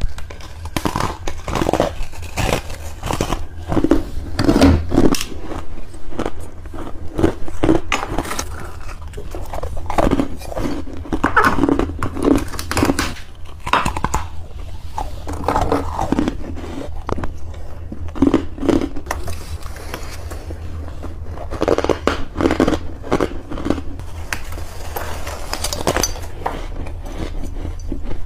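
Close-up crunching of ice or freezer frost being bitten and chewed: dense, irregular sharp cracks and gritty crunches, in bursts one after another.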